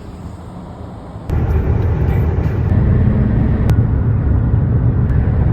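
Low, steady rumble of a car on the road, road and wind noise, jumping suddenly louder about a second in.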